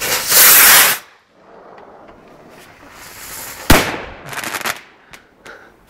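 Firework rocket launching with a loud hissing whoosh lasting about a second, then a single sharp bang as it bursts overhead nearly four seconds in, followed by a brief crackle.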